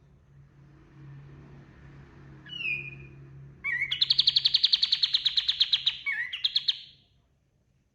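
Kapas tembak songbird singing: a short falling whistle, then a long, fast, rattling trill lasting about three seconds that ends abruptly.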